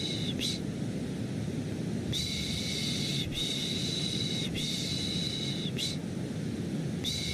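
Repeated 'shh shh' shushing for lulling a baby, over a steady low white-noise bed. A run of three shushes of about a second each starts about two seconds in, and another begins near the end.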